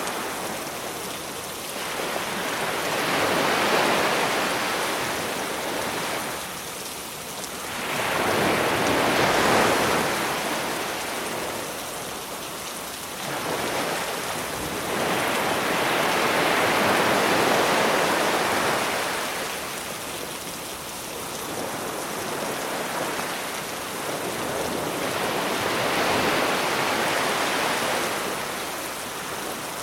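Sea waves washing onto the shore, rising and falling in slow surges every few seconds, over a steady hiss of rain.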